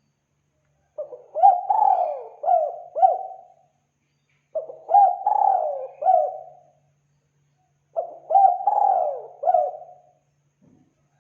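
Spotted dove (tekukur) cooing in three phrases of several coos each, a few seconds apart. It is a recorded lure call for attracting doves.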